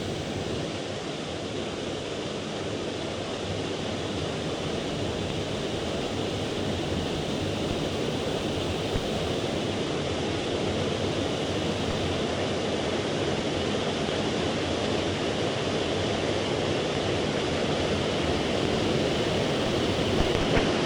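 Steady rush of a mountain stream's flowing water, growing gradually a little louder.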